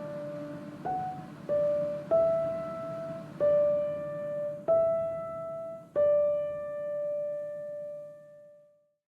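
Background music: slow single piano notes, about six struck one after another, the last one ringing on and fading out near the end.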